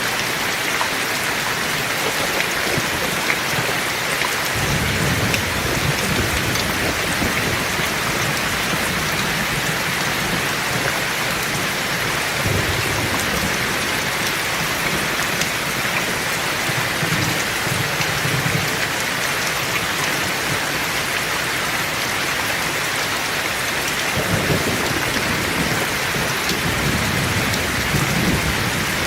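Heavy rain falling steadily, with low rolls of thunder rumbling under it several times: a long roll a few seconds in, shorter ones in the middle, and another roll near the end.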